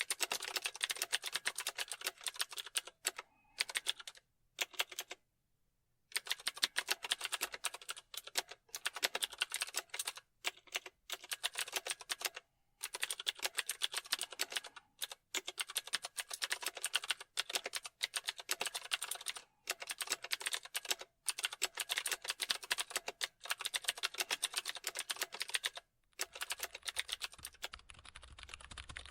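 Typing on a computer keyboard: fast runs of key clicks broken by short pauses, one of them nearly two seconds long early on. A faint low hum comes in near the end.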